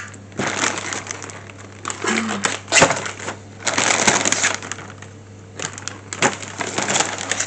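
Packaging rustling and crinkling in irregular bursts as model-kit parts are handled and lifted out of a delivery box.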